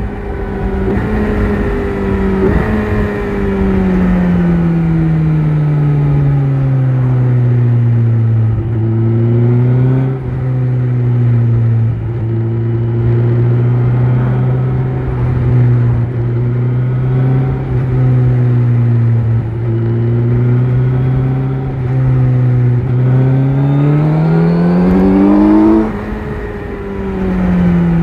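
Kawasaki Z900's inline-four engine with an Akrapovic exhaust, heard while riding. The revs fall off over the first several seconds, then hold steady at cruise with small throttle changes. They climb under acceleration, then drop suddenly near the end and keep falling.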